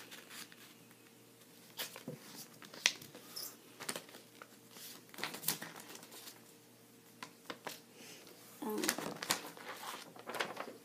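A sheet of paper rustling and crinkling in short, irregular bursts as it is folded and creased into a paper airplane.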